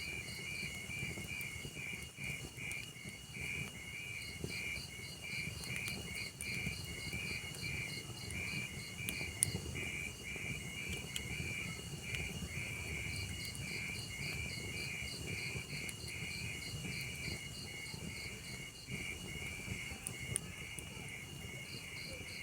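Crickets chirping in a steady rhythm of two or three chirps a second over a log fire's low crackle, with a couple of sharp pops from the burning wood.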